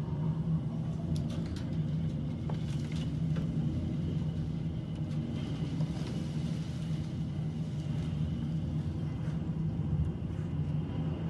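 Strong storm wind rumbling steadily on the microphone, with a few sharp ticks a second or two in.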